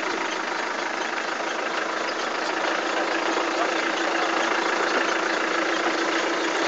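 Land Rover engine running steadily, a constant hum under a wide even rumble of noise.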